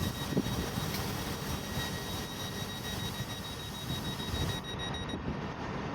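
Class 158 diesel multiple unit idling at the platform: a steady engine rumble with a thin, high, steady whine over it that stops about five seconds in.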